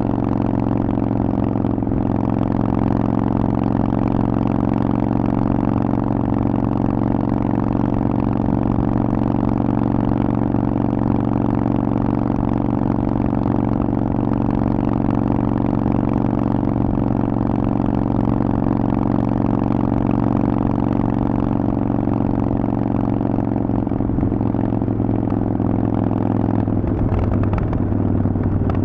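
Harley-Davidson Forty-Eight's air-cooled V-twin running steadily through a Vance & Hines aftermarket exhaust, its pitch holding nearly constant and shifting slightly near the end.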